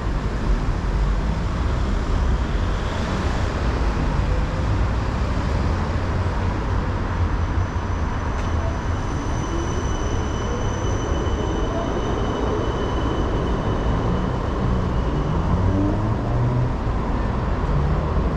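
Steady city traffic rumble with an electric tram passing, its motor whine rising slowly in pitch as it gathers speed about halfway through, together with a thin high steady tone.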